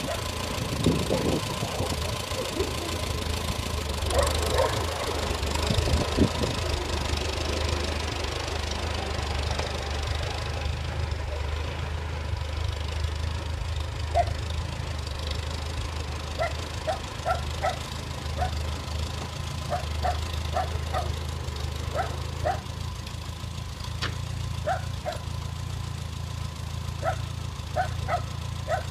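Farmall A tractor's four-cylinder engine idling steadily, with a dog barking in short repeated runs from about halfway through.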